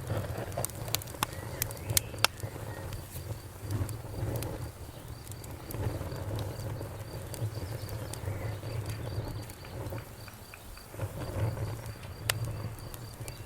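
Wood fire crackling, with scattered sharp pops that come thickest in the first couple of seconds and again once about twelve seconds in, over a steady low rumble of the burning.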